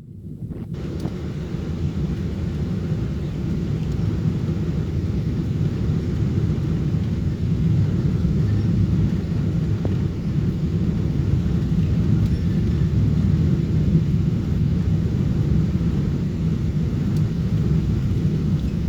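Steady low rumble of a Boeing 777-300-series airliner in flight, the engine and airflow noise heard from inside the cabin. It swells up in the first second and then holds even.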